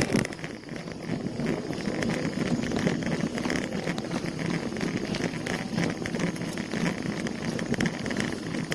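Bicycle in motion: a steady clatter of rattles and road noise from the bike as it rides along.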